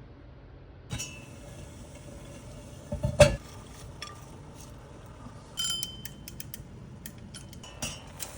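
Kitchen utensils and dishes knocking and clinking while broccoli is prepared: one heavy knock about three seconds in, a ringing clink midway, and scattered light clicks toward the end.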